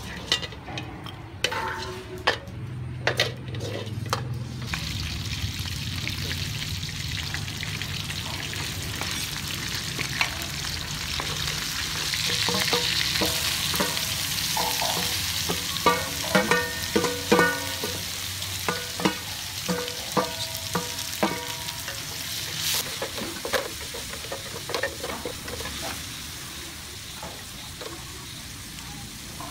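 Food sizzling in a hot aluminium wok as it is stir-fried with a wooden spatula, the sizzle swelling partway through as more ingredients go in. Scattered knocks and scrapes, with a run of ringing metal clinks past the middle.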